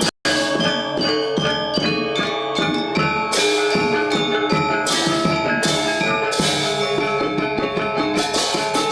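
Balinese gamelan gong ensemble playing a classical lelambatan piece: dense, overlapping strikes of tuned bronze metallophones and gongs ringing together. The sound drops out for a split second just after the start.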